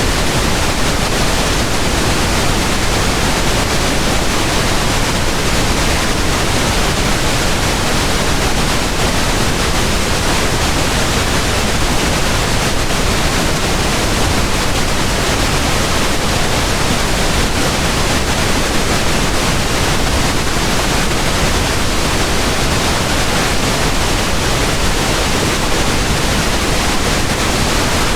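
Steady pink noise: an even, unchanging hiss spread from the lowest to the highest pitches.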